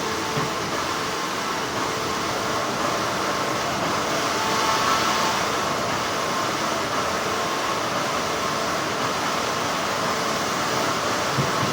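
Continuous hum and hiss of textile factory machinery, steady throughout, with a couple of faint ticks.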